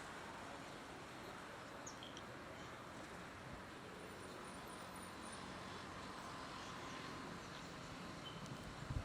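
Steady background hiss with a few faint high chirps about two seconds in and a soft thump near the end.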